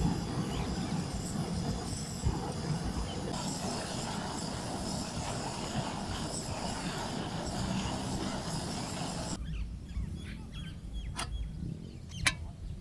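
Steady wind rumbling on the microphone, which cuts off abruptly about nine seconds in, leaving a quiet background with a few sharp clicks and knocks.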